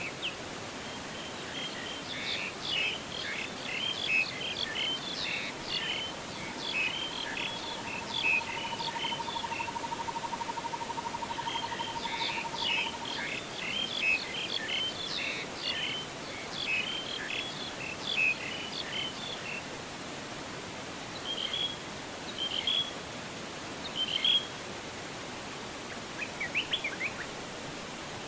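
Songbirds singing in two long runs of quick chirps and whistles, then scattered single calls, over a steady rush of falling water. Near the middle, a rapid even trill holds one low pitch for about five seconds.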